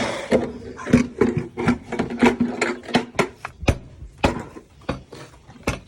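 Horse feed being poured into a stall: an uneven clatter of sharp knocks and taps.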